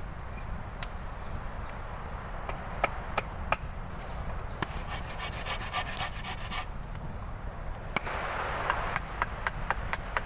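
Wood being worked with hand tools: a string of sharp wooden knocks, with a rasping stretch in the middle and the knocks quickening to about three a second near the end.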